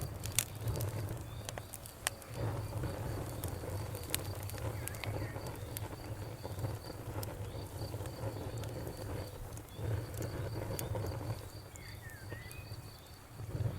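Wood fire burning in a fireplace, crackling with scattered sharp pops and snaps over a low, steady rumble of the flames.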